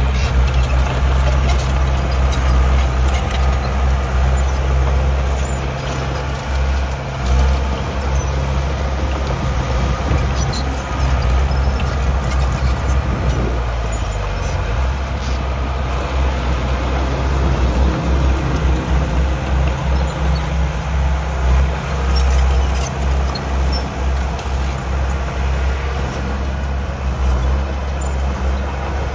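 Diesel engine of heavy earthmoving machinery running steadily under load, its note dipping about halfway through and then holding steady.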